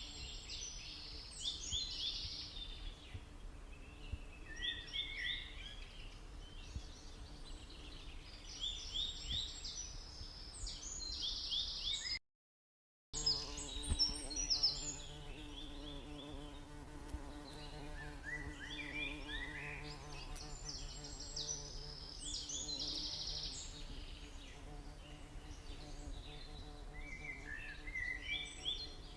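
Forest birds singing in repeated bursts of quick high chirping phrases every several seconds, over a steady low buzz from a stingless bee (Tetragonula) nest. The sound cuts out completely for about a second midway.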